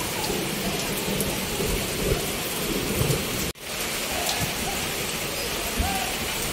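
Steady heavy rain falling, an even hiss of drops with a brief sharp break in the sound about halfway through.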